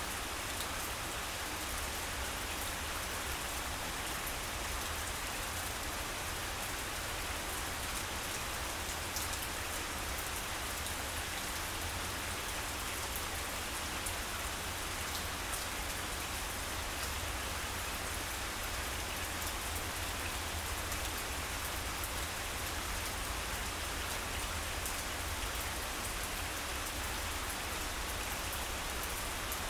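Steady rain falling on grass, a dense even hiss full of small drop ticks, with a steady low rumble underneath.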